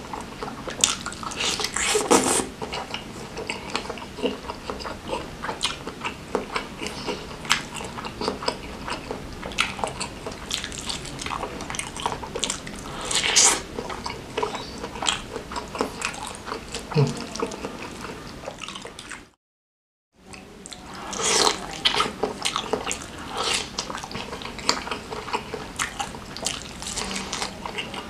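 Close-miked wet chewing and lip smacking, with soft fatty beef tetelan pieces in spicy sauce being eaten. Irregular sticky mouth clicks throughout, with a sudden drop to silence for under a second about two-thirds of the way through.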